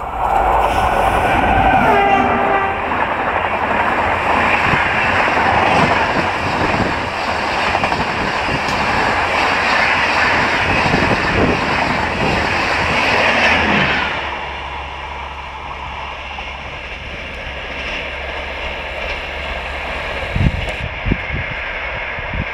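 Passenger train hauled by a WAP-7 electric locomotive passing at speed. The horn sounds in the first couple of seconds and drops in pitch as the locomotive goes by, then the coaches rush past with rapid wheel clatter over the rail joints. About fourteen seconds in the noise falls away sharply as the last coach passes, leaving a fading rumble and two thumps near the end.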